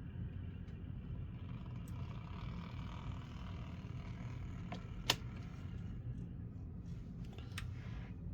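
N scale model locomotive on an Atlas VO-1000 mechanism running along the track, its small motor and gears making a steady whir, a little loud but very smooth. A sharp click about five seconds in.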